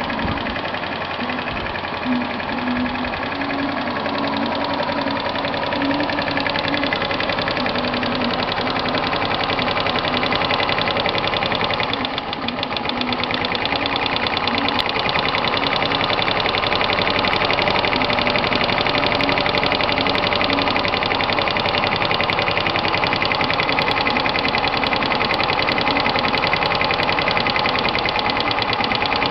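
125 cc moped engine running steadily on HHO gas mixed into its intake air. It dips briefly about twelve seconds in, then runs a little louder.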